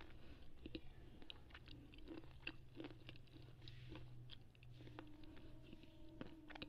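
Slate pencil being chewed right at an earphone microphone: faint, irregular gritty crunches and clicks.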